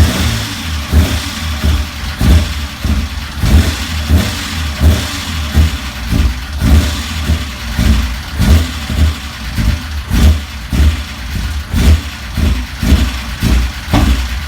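1995 BMW M3's straight-six engine running at a rough idle, its sound swelling and falling unevenly about twice a second.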